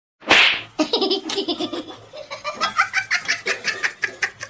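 A short noisy burst, then a person laughing hard in quick repeated bursts.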